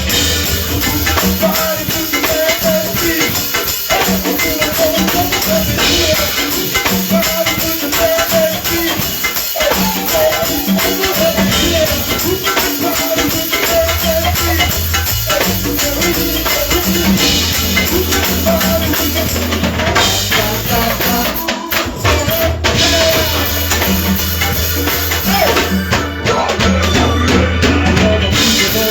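Live band music with drums and percussion.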